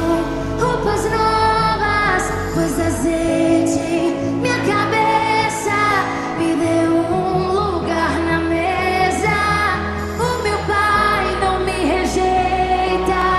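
A Portuguese-language gospel worship song: a solo voice singing a slow melody with vibrato over band accompaniment and a steady bass line.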